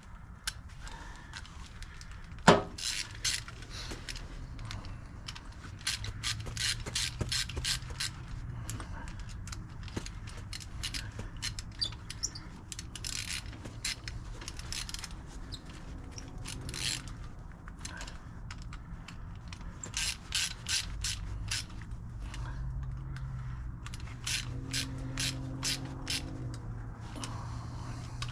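Ratchet wrench clicking in repeated bursts as the nuts on wire rope clamps are tightened around a winch cable loop, with one sharp knock about two and a half seconds in.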